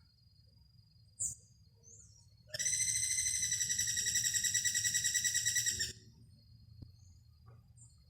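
A bird call: two brief high chirps, then one loud, rapidly pulsing trill held for about three seconds, which stops abruptly. A faint steady high insect-like drone lies underneath.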